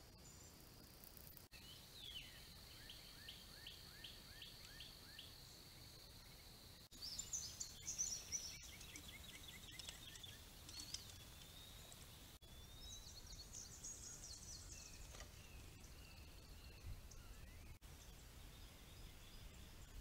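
Faint wild birdsong outdoors: a run of short repeated falling chirps, then louder high twittering about a third of the way in, and more high chirping past the middle. Several abrupt cuts break it up, and a steady high insect-like drone is heard at the very start.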